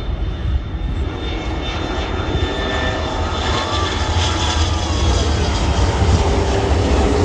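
Jet airliner engines: a steady rush with a thin high whine, growing louder over the seconds as the aircraft nears.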